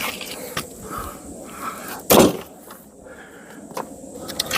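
Firewood being handled: small knocks and clicks of logs, then one loud wooden clunk about two seconds in.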